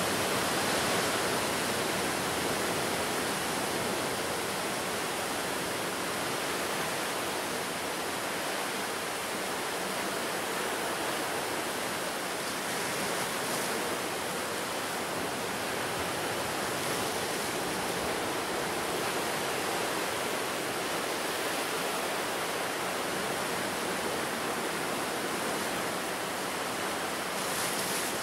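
Ocean surf washing in continuously: a steady, even rush of noise that swells slightly near the end.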